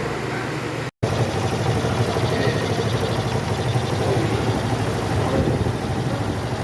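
Small Shineray Jet motorcycle engine running steadily at idle, cut off for a split second about a second in.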